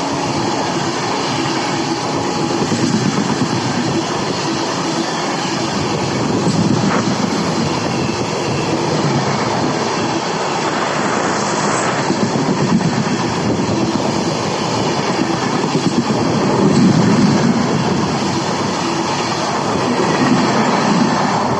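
Train running along the track: a steady loud rumble of wheels on rails with clickety-clack, swelling and easing in loudness, and a couple of sharp clicks.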